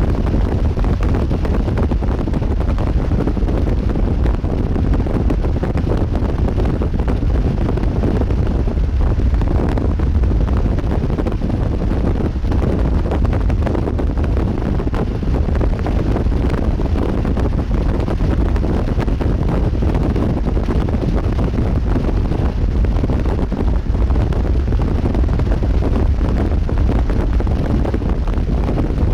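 Strong wind buffeting the microphone: a steady, loud low rumble with a gusty texture.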